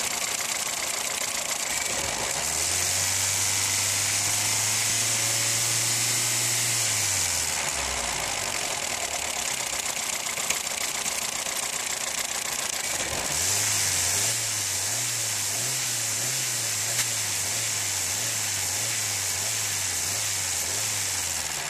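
Ford 1.3-litre four-cylinder petrol engine idling steadily in neutral, heard close from the open engine bay. A low hum rises over it twice, about two seconds in and again about thirteen seconds in.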